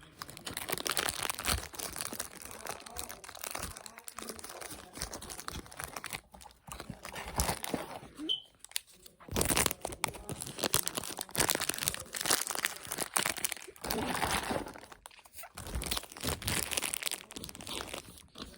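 Food packaging being handled and packed away: wrappers and bags crumpling and crinkling in irregular bursts, with short pauses.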